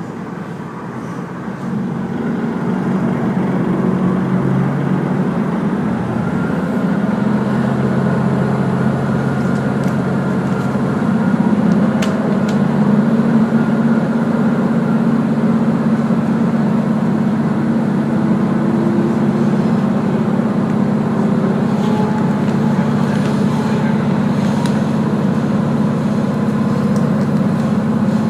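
Diesel railcar heard from inside while under way: steady engine hum with wheel and rail running noise, growing louder over the first few seconds and then holding steady.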